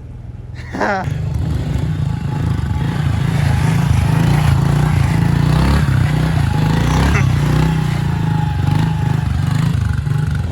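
A pit bike's small single-cylinder engine starting to run about a second in, then carrying on loud and uneven.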